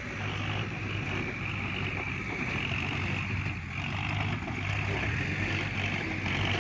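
Kubota farm tractor's diesel engine running steadily.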